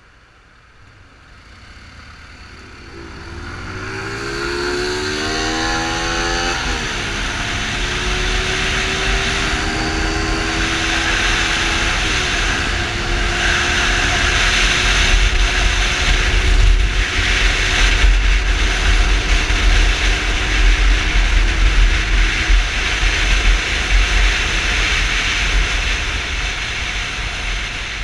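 Yamaha Fazer 250's single-cylinder four-stroke engine accelerating away. The engine pitch climbs steeply and drops at two gear changes, then holds steady at cruising speed. Wind rumble and hiss on the microphone build up as speed rises.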